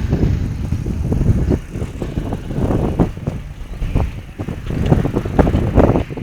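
Wind buffeting the microphone during a bike ride: an uneven low rumble that surges and drops, with road and vehicle noise underneath.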